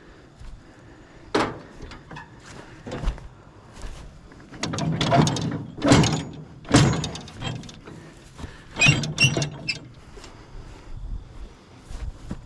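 Irregular metal clanks, knocks and scraping from the finish mower's hitch being shifted and checked. The loudest clanks come about six to seven seconds in and again near nine seconds.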